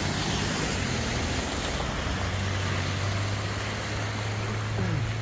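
Car driving on a wet road, heard from inside: a steady low engine drone over tyre and road noise, with a short falling tone near the end.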